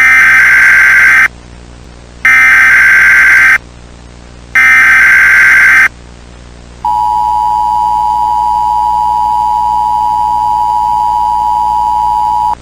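Emergency Alert System SAME header: three short bursts of data tones about a second apart, then the two-tone attention signal, a steady dual tone held about six seconds, announcing a tornado warning.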